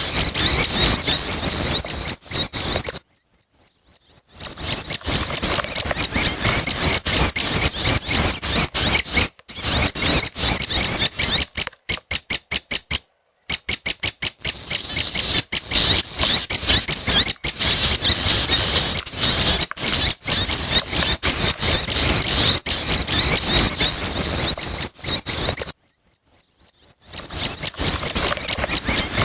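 Young prenjak (prinia) chicks calling in a dense, high-pitched, squeaky chatter, broken by two brief pauses. Around the middle the calls come as a short run of rapid, evenly spaced notes.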